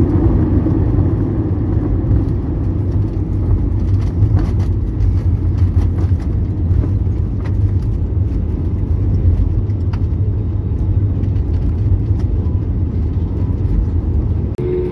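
Steady low rumble of an Airbus airliner's cabin, engines and airflow, with a few faint rattles.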